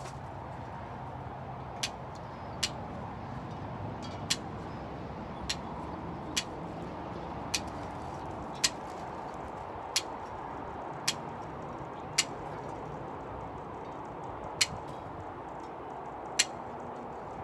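Wire cutters snipping through welded wire mesh: about a dozen sharp clicks, one every second or two.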